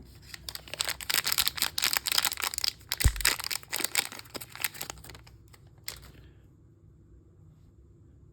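Crinkling and tearing of a toy mystery bag's wrapper being opened by hand, a dense run of crackles lasting about six seconds, with a soft thump about three seconds in.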